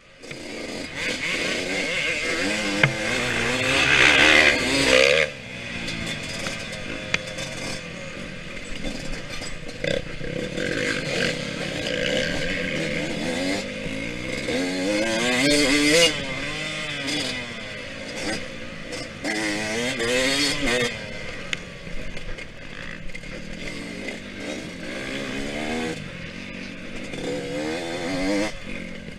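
Yamaha YZ125X two-stroke dirt bike engine running hard, its pitch repeatedly rising and falling as the throttle is opened and closed through the gears.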